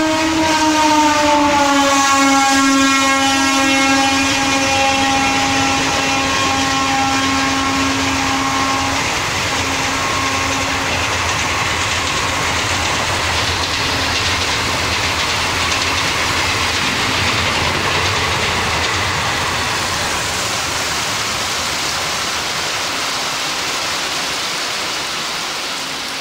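Electric locomotive's horn held long as an express train passes at speed, its pitch dropping about two seconds in as the locomotive goes by, then stopping about nine seconds in. After that comes a steady rush of the passenger coaches running past, mixed with heavy rain.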